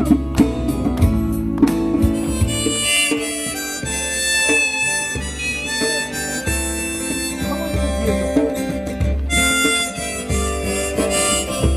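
Instrumental break in a live song: a harmonica plays a melody over strummed acoustic guitar and a low bass line.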